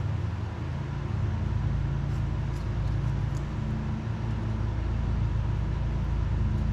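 1998 Harley-Davidson Fatboy's Evolution V-twin engine idling steadily, run so the new vacuum-operated petcock opens and can be checked for leaks.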